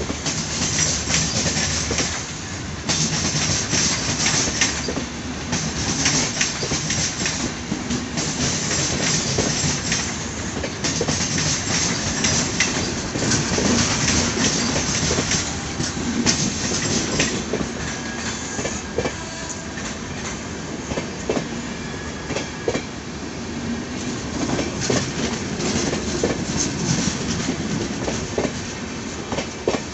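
LHB passenger coaches rolling past at low speed as the train pulls out, steel wheels clicking over the rail joints. A hiss swells and fades every second or two in the first half, then settles into a quieter rumble with more distinct clicks.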